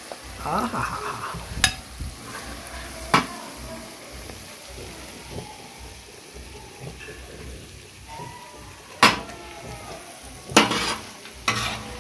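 Mutton chop masala sizzling in oil on a hot tawa griddle while a metal spoon scrapes it up, with several sharp clanks of the spoon against the griddle and bowl.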